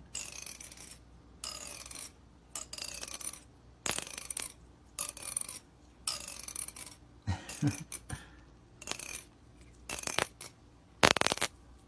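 A comb's teeth being rubbed, making a short high rasp about once a second, about a dozen strokes in all, the loudest near the end. This comb-rubbing sound is said to make some cats gag.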